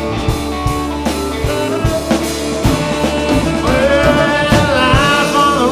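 Rock band playing: drum kit, bass and electric guitars, with no singing. About halfway through, a pitched lead line comes in that bends up and down.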